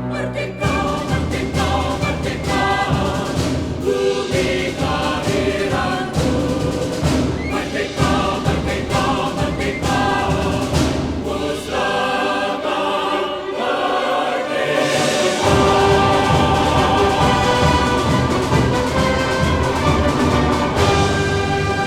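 Orchestra and choir performing together in block chords, swelling into a fuller, louder passage with deep timpani about two-thirds of the way through.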